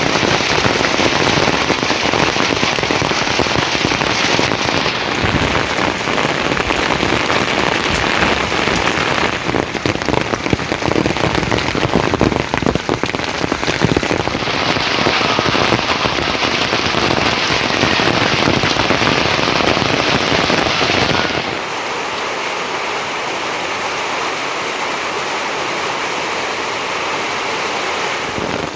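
Heavy rain falling, a dense steady patter of drops. About three quarters of the way through it becomes softer and thinner, with less of its deep rumble.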